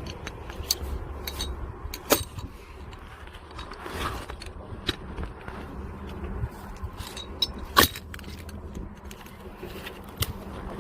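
Firewood being split and handled: two loud, sharp wooden knocks about six seconds apart among lighter clicks and clatter of wood pieces. A low wind rumble on the microphone runs underneath.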